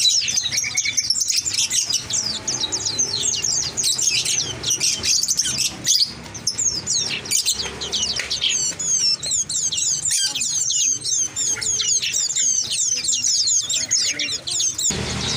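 Many small caged songbirds chirping and twittering at once, a dense chorus of quick high-pitched chirps and trills that never lets up.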